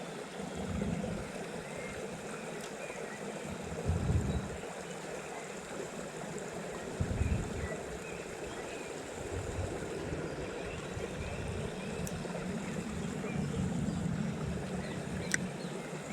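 Small stream flowing steadily, with a couple of low bumps about four and seven seconds in.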